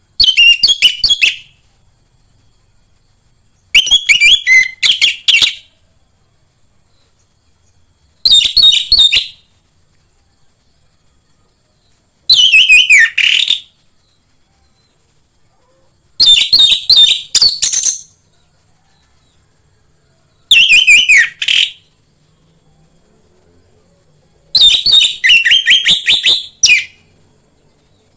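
Orange-headed thrush (anis merah) singing: seven short phrases of rapid, varied whistled notes, each a second or two long, coming about every four seconds, with a faint steady high hiss underneath.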